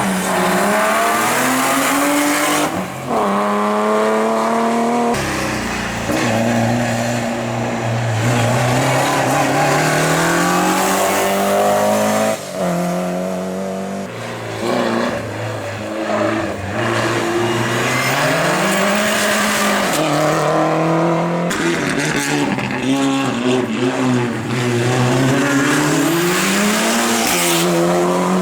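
A competition car's engine at full racing load on a hillclimb. Its pitch climbs and falls repeatedly, with several sudden drops between pulls.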